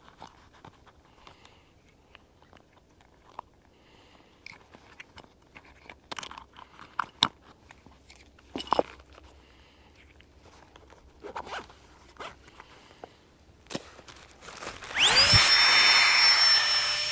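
Crinkling, rustling and small clicks of camping gear being handled, then about 15 seconds in a small electric motor suddenly whirs up, runs loud and steady for about two seconds, and winds down.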